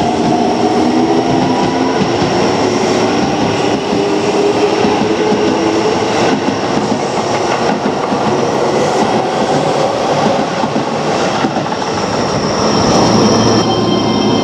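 Keio Line electric commuter train running, with a motor whine rising in pitch at the start and the wheels clicking over rail joints a few times. Near the end, new steady whining tones come in.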